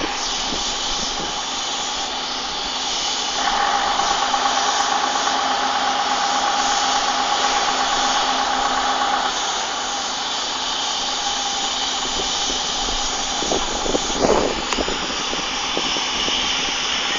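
Machinery running steadily with a strong hiss and a constant low hum; a higher tone joins from about three seconds in for several seconds, and a brief louder knocking sound comes about fourteen seconds in.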